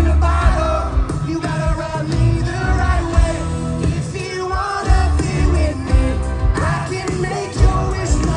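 Live country band music: a male lead singer over a full band with a heavy, steady beat.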